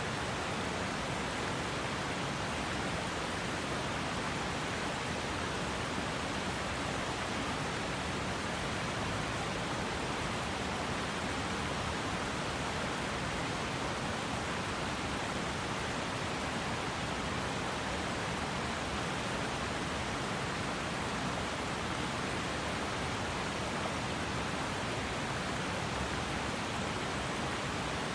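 River water flowing: an even, unbroken rush of water that holds steady throughout.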